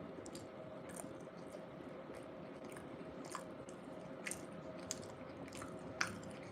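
Chewing a bean burrito close to the microphone: soft mouth clicks and smacks every second or so.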